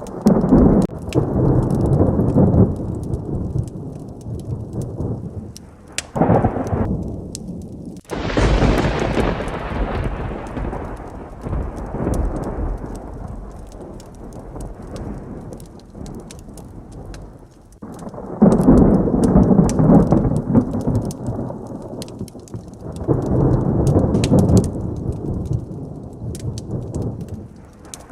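Thunderstorm with steady heavy rain and repeated rolls of thunder. A sharp crack about eight seconds in rumbles away over several seconds, and two more long rumbles come later.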